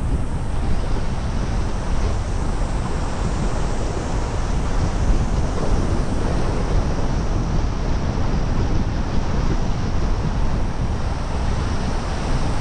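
Steady road and wind noise of a car driving, an even rushing sound with no changes.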